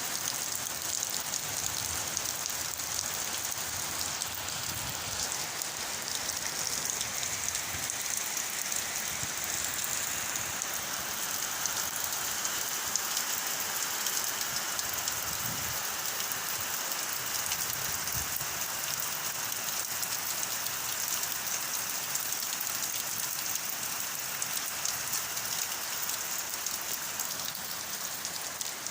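Very heavy tropical rain pouring down steadily, a dense, even hiss of rain on surfaces with no let-up.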